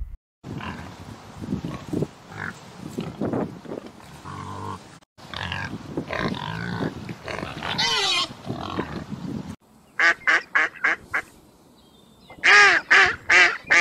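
Farm animal calls in short cut-together clips: rough grunting with a few higher gliding squeals, then two quick runs of about seven short, sharp calls each.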